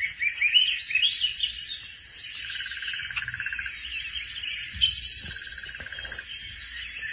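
Birds chirping and singing: quick high-pitched calls and trills overlapping one another, with a buzzy rapid trill a couple of seconds in.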